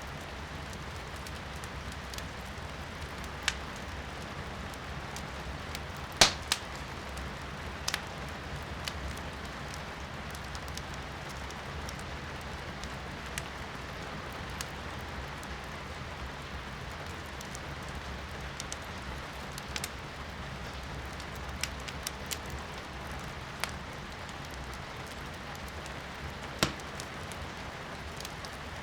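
Firewood crackling in a fireplace, with scattered sharp pops, the loudest about six seconds in, over a steady hiss of rain heard from indoors.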